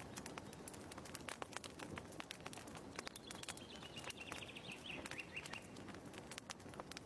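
Wood fire crackling in a fireplace: irregular sharp pops and snaps over a soft hiss. A faint bird twitter sounds in the middle.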